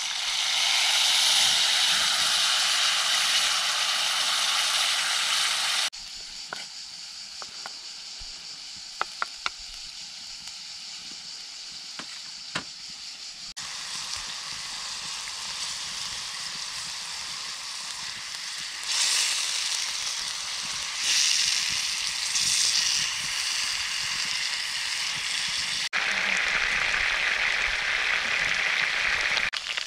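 Chicken pieces sizzling in a cast-iron skillet over a wood fire, loudest at the start as liquid is poured into the hot pan. The sizzle then drops to a quieter simmer with a few sharp clicks, and grows loud again near the end.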